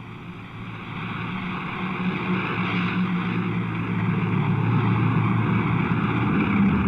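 Vehicle running, a steady rumbling noise that grows louder, then drops off abruptly at a cut.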